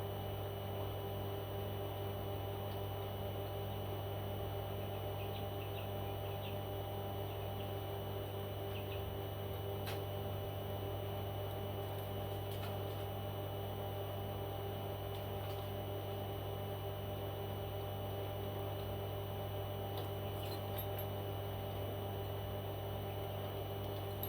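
Steady low electrical hum with a few faint, short high chirps from a small bird, and scattered faint clicks.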